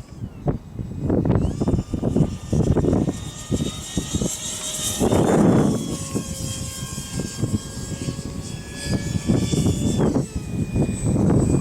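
A 64mm electric ducted fan of a RedCat Jetiger RC jet whines in flight; its pitch rises, holds steady, then drops about ten seconds in. Heavy wind rumble on the microphone swells and fades beneath it, loudest about halfway through.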